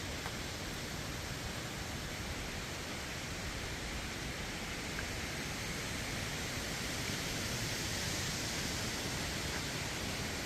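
Strong gusty wind rushing steadily, swelling a little near the end.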